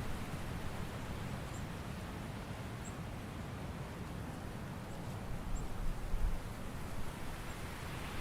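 Autumn forest ambience: a steady soft rustle of wind through leaves, with a couple of low gusts around six seconds in and a few faint, high, short chirps scattered throughout.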